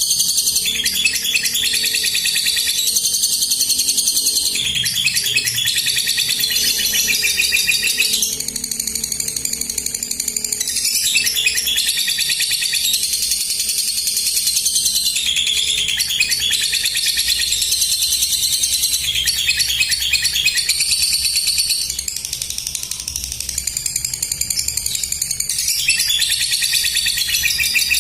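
Lovebird ngekek: a long, almost unbroken, rapid high-pitched chattering trill, the bird in full song, with brief dips in loudness now and then.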